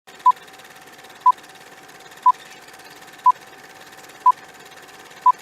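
Short electronic beeps at one pitch, one each second, six times, over a steady hiss and a faint steady lower tone, like a radio signal.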